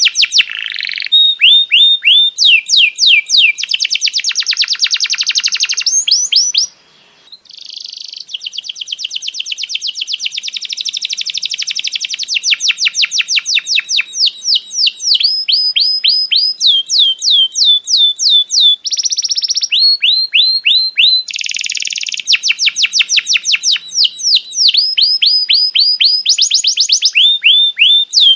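Songbird song on a masteran (training) track: quick runs of high, downward-sweeping chirps, several a second, broken by denser buzzy trills. The song drops out briefly about seven seconds in.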